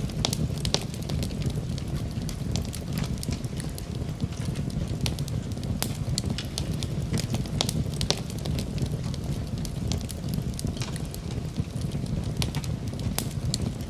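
Wood fire burning in a fireplace, a steady low rumble of flame with frequent sharp, irregular crackles and pops from the burning wood.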